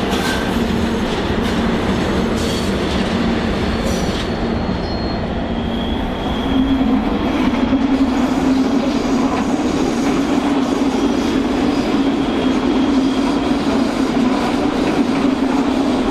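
Electric train running past at close range: a steady hum that gets louder and rises slightly in pitch about six seconds in, over dense rolling noise, with sharp wheel clicks over the rail joints in the first few seconds and brief high wheel squeals.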